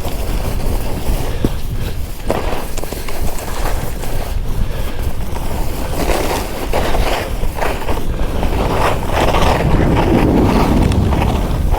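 Skis running and scraping over fresh snow, with wind rushing over the microphone; the sliding noise swells louder in the second half.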